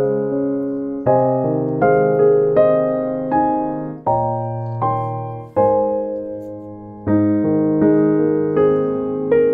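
Slow, gentle piano music: chords and bass notes struck about every half second to a second, each ringing on and fading before the next.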